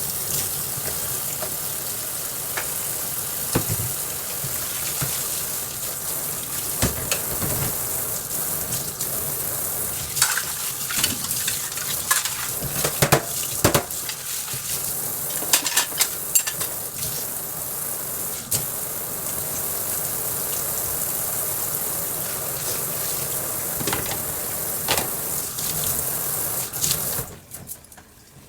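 Soup sizzling in a pot on the stove while a spoon stirs it, knocking and scraping against the pot now and then. The sizzling cuts off near the end.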